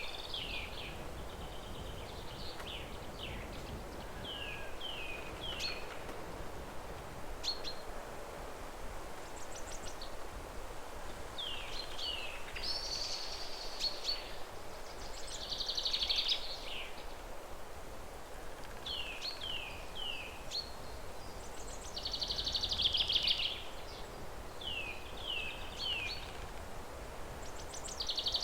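Wild bird song: short downward-sliding whistled notes, repeated mostly in groups of two or three, alternating with harsh buzzy trills lasting a second or two, over a steady outdoor hiss.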